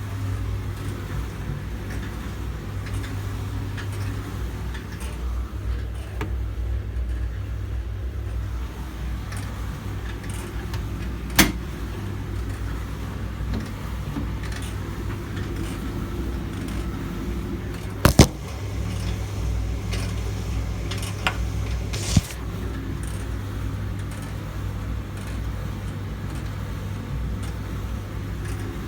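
Hoover appliance running with a steady low motor hum, with a few sharp clicks or knocks about 11, 18 and 22 seconds in.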